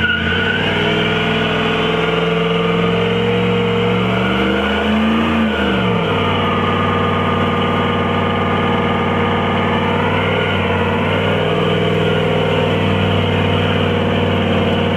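1996 Dodge Ram pickup's engine held at high revs during a burnout, the pitch climbing over the first few seconds, dipping and wavering about five seconds in, then holding high and steady.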